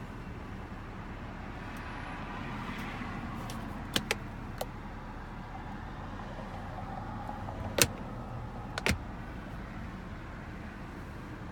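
BMW 540i's turbocharged 3.0-litre inline-six idling steadily, heard at the exhaust. A few sharp clicks cut through the idle: a quick pair of clicks a third of the way in, then two louder knocks later on.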